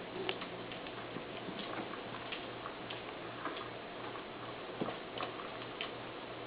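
Scattered light clicks and taps from Bengal kittens at play, over a steady hiss and a low hum that pulses about twice a second.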